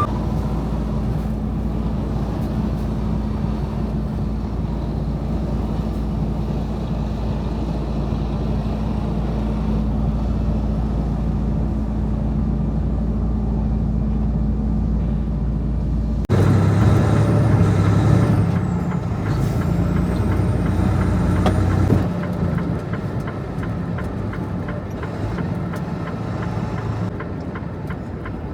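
Semi truck's diesel engine running steadily, with an abrupt switch to a louder, rougher engine sound for about six seconds in the middle before it settles back to a steady hum.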